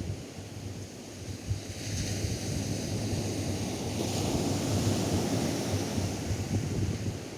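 Atlantic surf on a sandy beach: a wave washes in about two seconds in, swells to its loudest through the middle and eases off near the end. Wind buffets the microphone throughout as a gusty low rumble.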